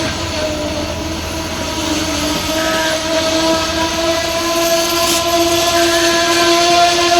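Amtrak Northeast Regional passenger train arriving and slowing. A low rumble fades after a couple of seconds under a steady pitched tone that is held throughout and wavers slightly.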